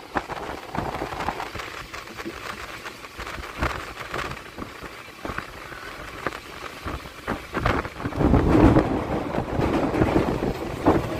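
Passenger train running on the track, heard from an open coach door: wheel and rail rumble with scattered clicks, and wind buffeting the microphone. It grows louder, with a deeper rumble, about eight seconds in.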